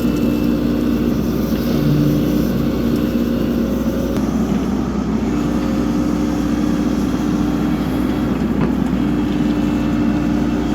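A John Deere compact excavator's diesel engine running steadily under work, its pitch shifting slightly as the hydraulics are worked.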